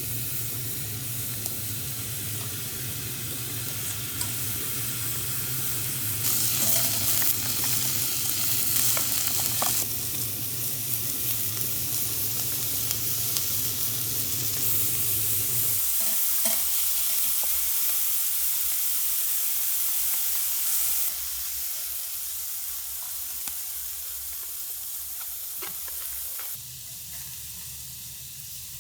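Food sizzling and frying in a pan, with stirring and the odd clink of a utensil. The sizzle steps louder and quieter a few times along the way.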